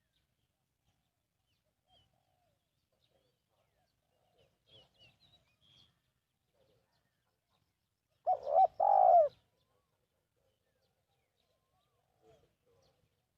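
Spotted dove cooing once: a short note followed by a longer coo. Faint chirps of smaller birds come a few seconds before it.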